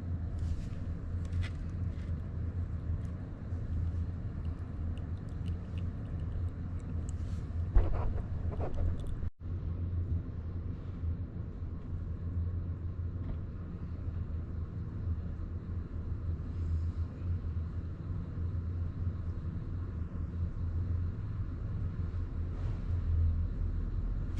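Honda Grom 125's single-cylinder engine running with a steady low rumble, with a single knock about eight seconds in and a momentary dropout just after.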